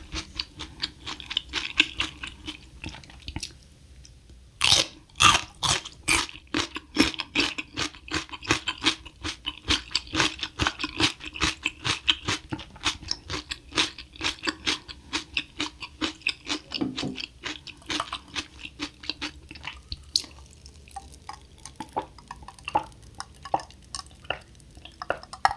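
Close-miked mouth sounds of a person chewing food: a steady run of small wet clicks, several a second. Near the end she drinks cola from a glass.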